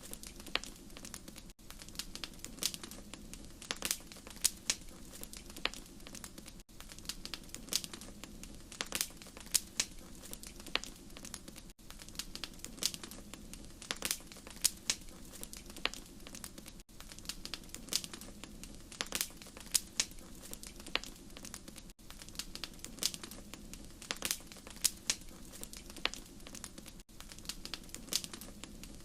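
Wood fire crackling: frequent sharp pops and snaps over a low steady rush of the flames. A brief dip in the sound comes about every five seconds, where a short recording loops.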